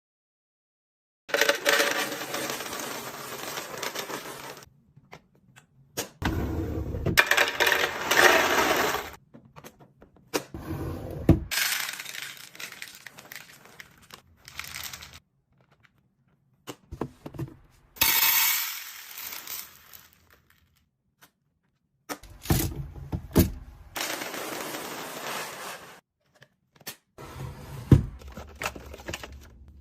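Food containers and packages being handled while a pantry and fridge are restocked: clinks, taps and knocks with rustling, in a series of short separate clips with sudden cuts to silence between them.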